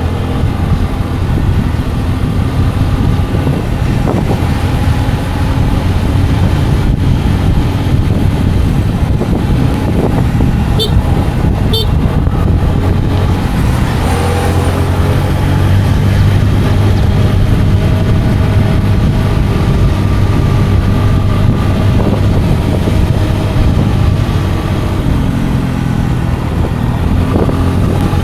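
Scooter engine running under way, with a heavy low rumble and an engine pitch that rises and falls with the throttle. Two brief, sharp high-pitched sounds come about eleven and twelve seconds in.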